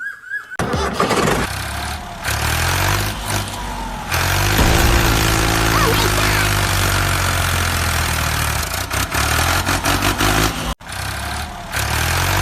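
An engine starts about half a second in and runs steadily with a low, pitched rumble, breaking off abruptly for an instant near the end before running on.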